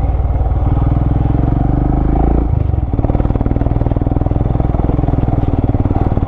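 Vehicle engine running under load on a steep off-road hill trail, its note dropping about two and a half seconds in, then running steadily again.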